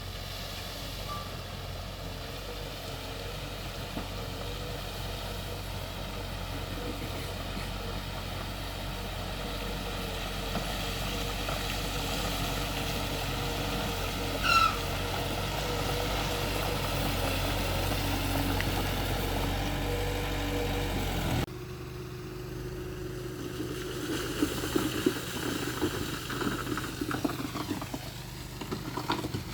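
Heavy earthmoving machinery's diesel engine running steadily, with one short high beep about halfway. About two-thirds in the sound changes abruptly to a quieter engine with irregular knocks and clatter.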